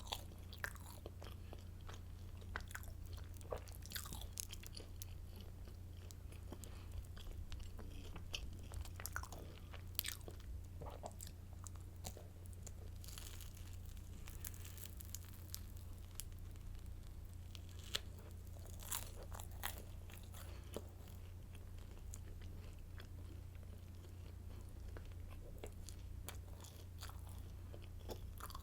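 Close-miked biting and chewing of a crusty garlic baguette stick: irregular crisp crunches, a few of them sharper and louder, over a steady low hum.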